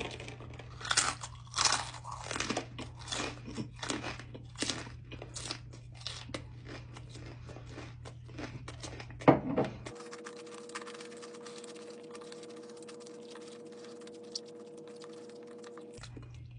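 Close-up crunching and chewing of a bite of raw jalapeño stuffed with crunchy Takis rolled tortilla chips. The crunching stops about ten seconds in, and a steady hum of several even tones follows for about six seconds.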